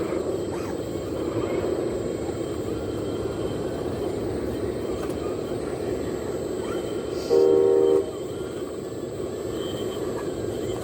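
Steady engine drone, with one horn blast of under a second about seven seconds in, the loudest sound, from a 1/14-scale RC truck's sound module.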